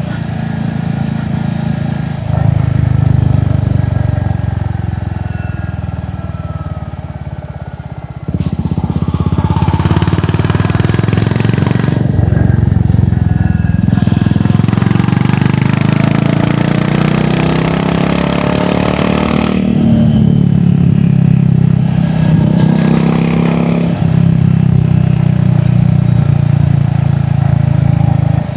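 Royal Enfield Hunter 350's single-cylinder engine through an aftermarket exhaust, on the move: the engine runs down on a closed throttle for the first several seconds, then picks up suddenly. It pulls up through the gears, with the revs dipping briefly at each of several shifts.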